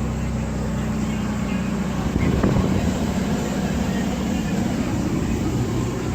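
A steady engine drone with a low hum, swelling louder for a moment about two seconds in.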